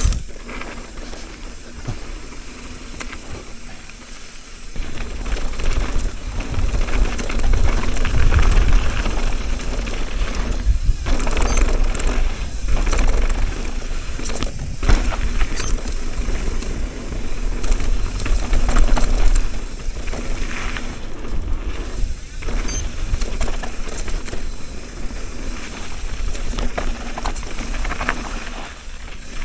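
Mountain bike descending a rough bike-park trail at speed: tyres rolling over choppy dirt and the bike rattling over bumps, with wind buffeting the microphone. It gets louder about five seconds in.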